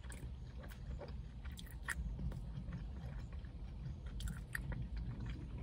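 A person chewing a mouthful of food with the mouth closed: soft wet smacks and small clicks scattered through, over a low steady hum.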